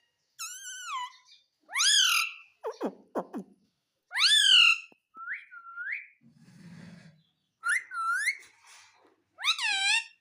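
Ringneck parrot (rose-ringed parakeet) giving a string of short, whistled calls that glide up and down in pitch, with brief pauses between them.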